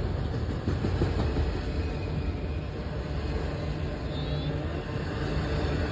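Freight train rolling past: a steady low rumble of the autorack cars' wheels on the rails.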